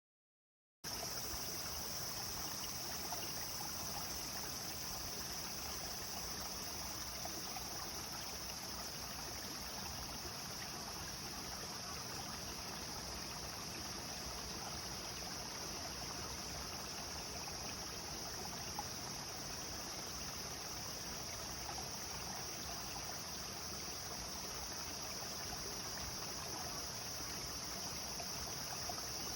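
A clear stream flowing steadily, an even rush of running water, with a steady high-pitched hiss over it. The sound starts abruptly just under a second in.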